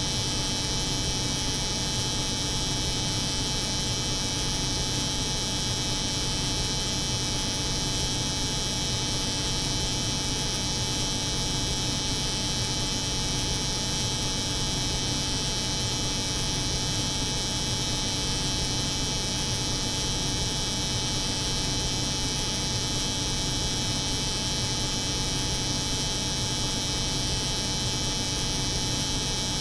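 Steady layered drone of an electric hair clipper's buzz over the hum of a cold-room refrigeration unit, unchanging throughout.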